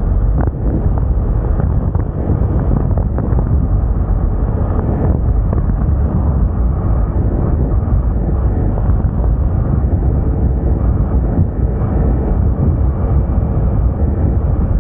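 Steady wind rush on the microphone of a Moda Moca 110 scooter being ridden, with the scooter's running and road noise mixed in beneath it.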